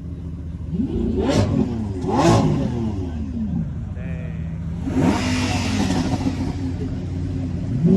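Lamborghini supercar engine idling and being revved: two quick blips about a second apart near the start, then a longer rev about five seconds in, each rising in pitch and falling back to idle.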